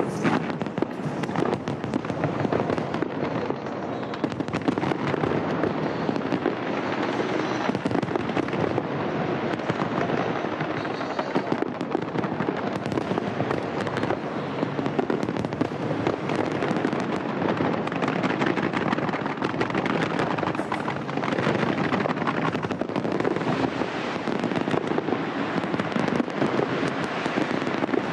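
A dense fireworks display barrage: many bangs and crackles following each other without a break.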